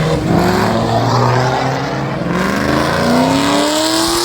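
Car engine accelerating hard, its note rising steadily in pitch.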